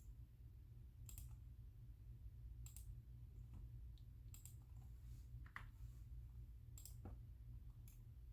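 Faint, sparse clicking from computer mouse and keyboard use: about six separate clicks spaced a second or more apart, over a low steady hum.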